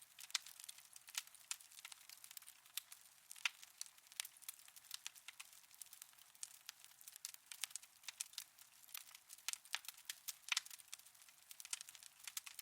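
Wood fire in a fireplace crackling: faint, irregular pops and snaps over a soft hiss.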